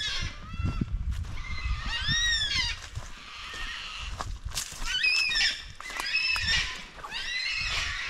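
Wild birds giving a series of harsh calls that rise then fall in pitch, coming in clusters every second or two, with footsteps thudding underfoot.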